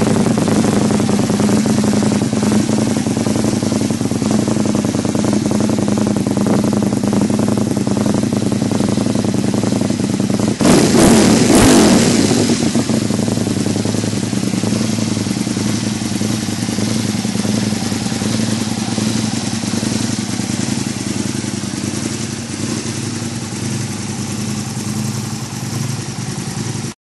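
Aprilia Tuono motorcycle engine idling steadily through a Pipe-Werx aftermarket exhaust, with one short rev about ten seconds in.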